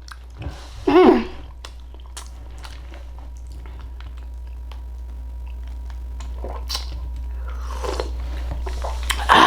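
Close-miked chewing and mouth clicks of someone eating baked sweet potato with its skin, with a short voice sound about a second in and a louder noisy burst right at the end.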